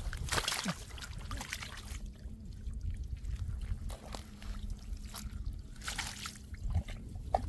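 Shallow muddy water sloshing and splashing, with a few sharp splashes scattered through, over a low steady rumble.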